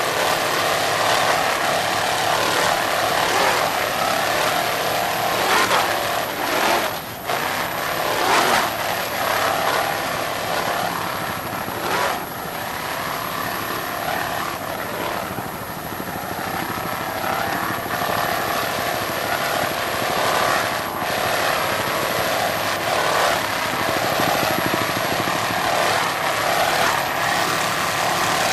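Offshore racing powerboat engines running flat out: a steady, loud engine drone, with a few short surges about seven, eight and twelve seconds in.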